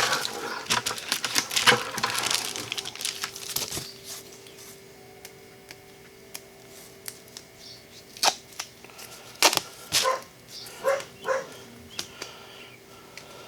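Tape pulled off a roll and reflective foil insulation crinkling for the first few seconds, then scattered small clicks and taps. A few short whimpers or yips from a dog come in the later half.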